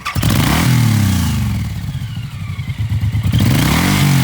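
Suzuki Boulevard M109R's 1800 cc fuel-injected V-twin starts up right away and is revved twice while standing still, the engine note rising and falling each time.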